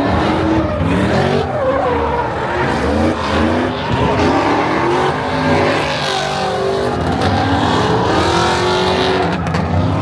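Car engines revving hard, their pitch rising and falling again and again, several overlapping.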